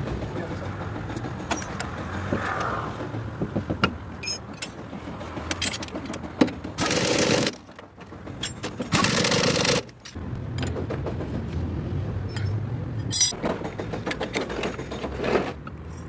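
Two loud bursts from a pneumatic air gun in a workshop, the first about half a second long and the second nearly a second long, roughly two seconds apart. Metal tools clink and knock in between.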